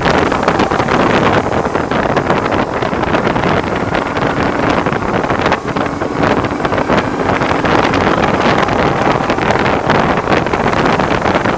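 Loud, steady wind buffeting on the microphone of a BMW R1100R motorcycle riding at road speed. The boxer twin's engine hum is faint beneath it. The rider blames the windscreen for the wind noise.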